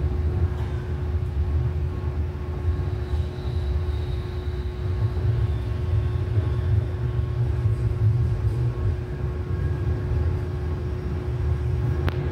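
Light rail train running along the track, heard from inside the car: a steady low rumble with a constant hum over it, and one sharp click near the end.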